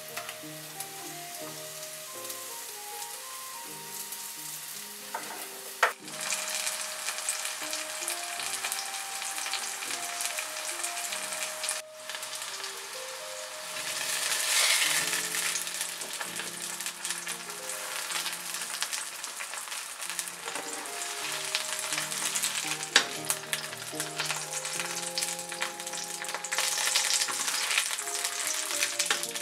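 Sliced button mushrooms sizzling in a non-stick frying pan as they are stirred and turned with a spatula; the sizzle gets clearly louder about six seconds in, after a sharp tap. A simple background melody plays underneath.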